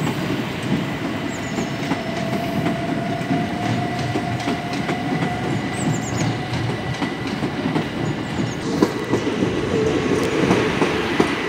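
Electric passenger trains running over the multi-track approach and its points, wheels clattering over rail joints. A steady motor whine rises slightly in pitch and fades, and another train's hum comes in about nine seconds in.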